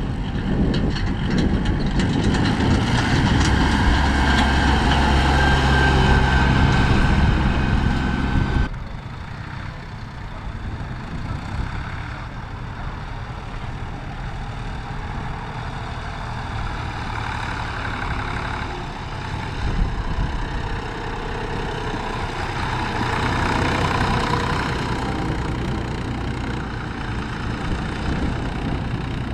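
Tractor engines running at a steady pitch. About nine seconds in, the loud engine sound cuts off suddenly and a quieter engine runs on, with a short knock a little before two-thirds of the way through.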